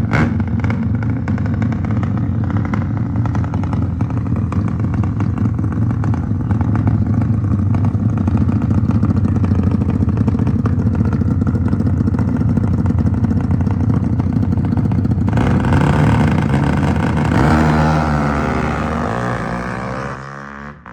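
Motorcycle engines running loudly and steadily, growing brighter about fifteen seconds in, then falling in pitch and fading near the end.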